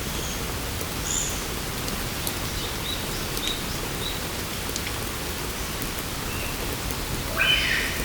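Steady rain falling in forest, with a few faint short bird chirps. Near the end a louder animal call begins.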